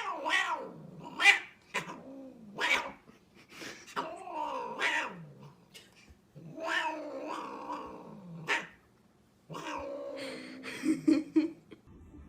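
A cat meowing and yowling over and over: about eight drawn-out calls that bend up and down in pitch, with short pauses between them.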